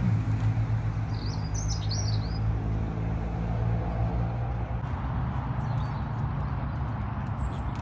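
A small bird sings a short warbling phrase about a second in, with a few fainter high chirps later, over a steady low rumble.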